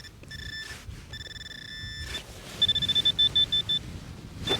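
Handheld metal-detecting pinpointer probing a hole, giving a few electronic beeps and a held tone, then a quicker, louder run of beeps of about six a second for a second or so. The alert means metal is still in the soil at the wall of the hole.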